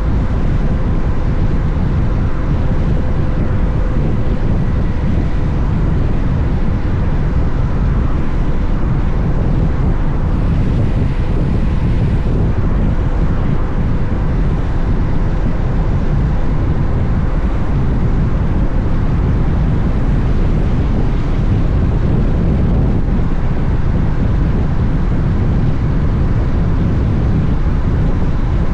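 Steady wind rush on the camera microphone while riding a Honda X-ADV at speed, with the bike's parallel-twin engine running underneath.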